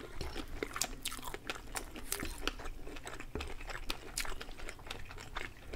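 Close-miked chewing of smoked hunting sausages and spaghetti: soft, irregular mouth clicks and smacks, several a second.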